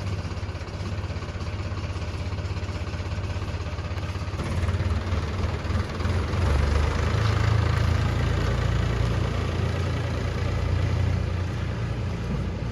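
Diesel engine running with a steady low beat. It grows louder about four to five seconds in and stays louder, as if under more load or revved.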